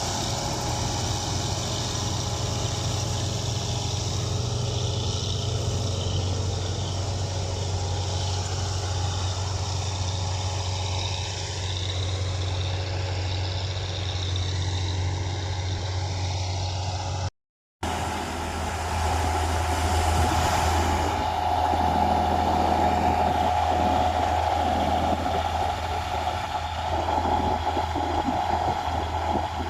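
Wheat combine harvester running steadily, with a continuous low engine hum and machinery noise. The sound drops out for a moment about halfway through, and after that a steady mid-pitched whine from the machine is louder.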